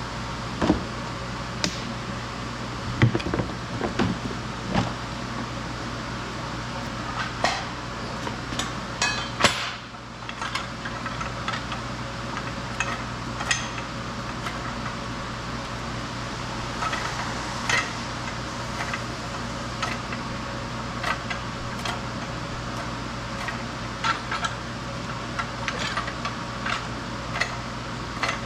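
Scattered metallic clinks, taps and knocks of hand tools on car parts over the steady hum of a workshop fan.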